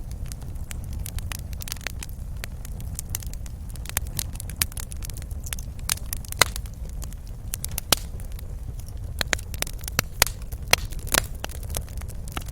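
Wood fire in a fireplace crackling, with irregular sharp pops and snaps over a steady low rumble of the flames; a few louder pops stand out in the second half.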